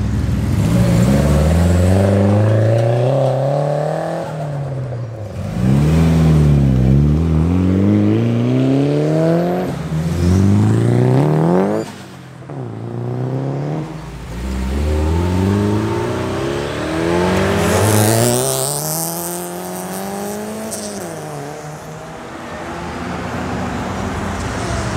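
Modified cars accelerating hard away one after another, each engine note rising in pitch as it revs up and dropping back at each gear change. A brief high hiss rides over one of the later pulls.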